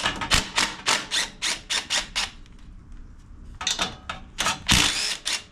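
Hand tools working on a small engine: a quick run of sharp clicks, about four or five a second, then a pause, a few more clicks and a louder clatter near the end.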